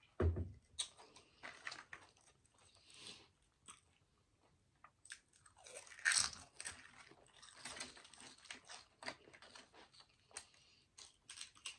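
Close-miked crunching and chewing of crisp chips, in irregular crackly bites; the loudest crunch comes about six seconds in. A low thump comes right at the start.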